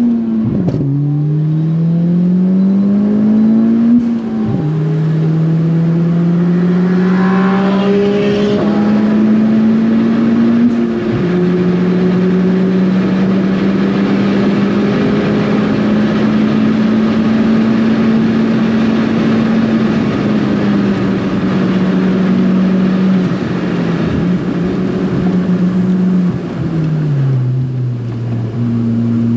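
Big-turbo Ford Fiesta ST engine pulling hard through the gears under full throttle, its note rising and dropping back at upshifts about a second, four and a half seconds and eleven seconds in. It then runs at steady high revs, and near the end the revs fall away and pick up again.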